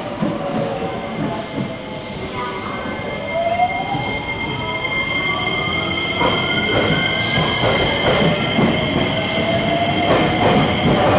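Electric train pulling away and accelerating: its motor whine climbs steadily in pitch over two steady high tones. From about six seconds in, the wheels clatter over the rail joints, growing louder.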